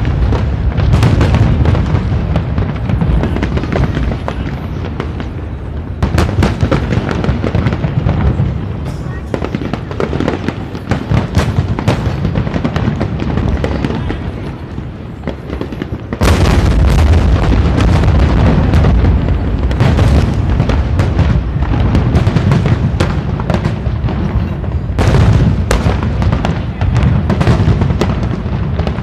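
Aerial firework shells bursting in a dense, continuous barrage of booms and crackles. It gets suddenly louder just past halfway and ends in a run of sharp cracks.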